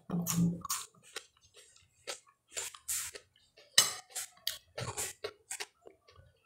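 Close-miked mouth sounds of eating stewed chicken feet by hand: irregular wet clicks and smacks of chewing, with a sharper click about four seconds in.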